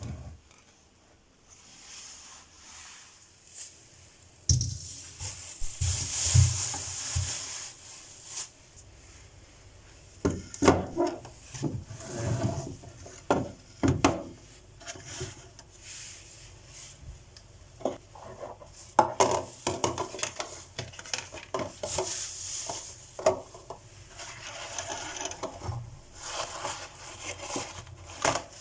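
Food storage containers and groceries being handled and put away in a refrigerator: scattered knocks and clatter as things are set down, with stretches of rustling and rubbing.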